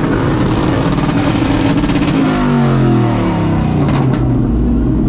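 Truck engine revving hard, then the revs fall away about two and a half seconds in. A loud hiss over it cuts off about four seconds in.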